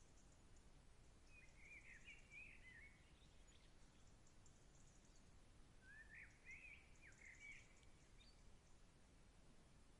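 Faint songbird singing: two quick runs of varied chirping notes, each about a second and a half long, one a little after the start and one about six seconds in, over a faint steady background hiss.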